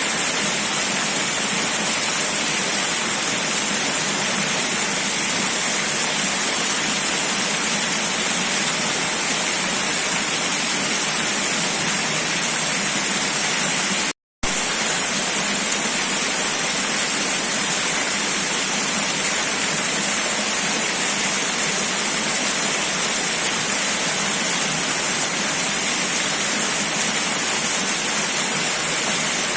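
Steady rushing water noise, even and unbroken except for a split-second cut to silence about halfway through.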